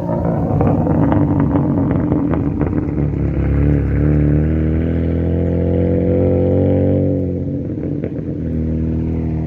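Turbocharged 2.7 L V6 engine of a 2005 Hyundai Tiburon running under load, its pitch climbing slowly, then falling off about seven seconds in as the throttle eases.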